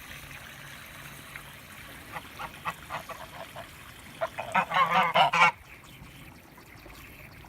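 Domestic geese honking: a few scattered honks, then a loud burst of rapid honking about four seconds in that stops abruptly after a second or so.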